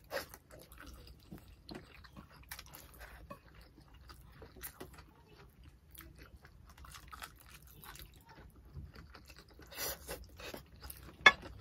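Close-up chewing and lip smacking of two people eating fish and rice by hand, with many small wet mouth clicks. There is one sharp knock near the end.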